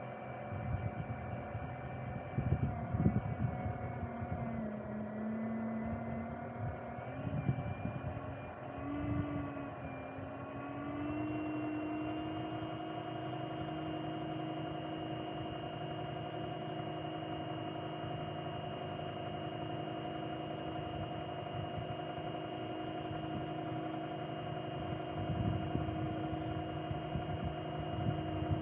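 Electric motor whine from the RC tugboat, shifting in pitch for the first several seconds, then holding a steady higher pitch from about eleven seconds in, and dropping just at the end. A few rough noisy swells come and go over it.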